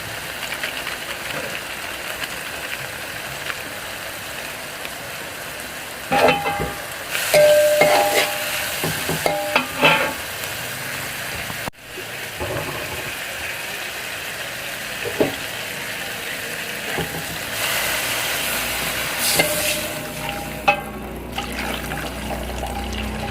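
Food sizzling steadily in a hot pan while a metal spatula stirs it, scraping and clanking against the pan in several short bursts.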